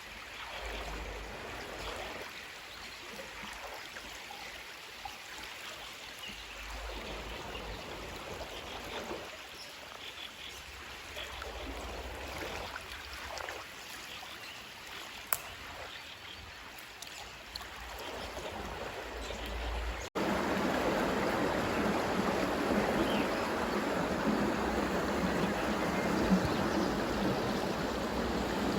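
Steady rush of running water. About twenty seconds in it cuts abruptly to a louder, fuller rush.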